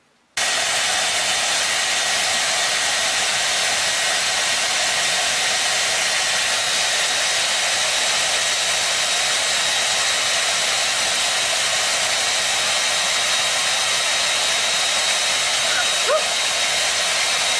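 A steady rushing noise with a faint high whine, like a blower, that cuts in suddenly just after the start and holds an even level throughout.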